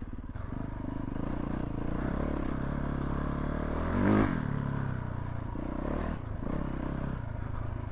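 Yamaha YZ450F's single-cylinder four-stroke engine idling steadily, with a brief blip of the throttle about four seconds in.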